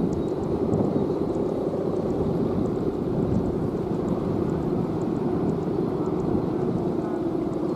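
Steady droning hum, strongest in a low-middle band, which fits the bowstring hummer (guwangan) of a big Balinese kite vibrating in strong wind, with wind rumbling on the microphone underneath.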